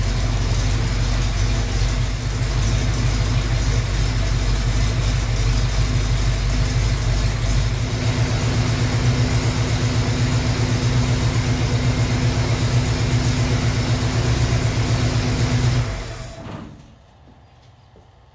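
AMC V8 engine in a 1974 Javelin running steadily, then switched off about sixteen seconds in, the sound dying away over about a second.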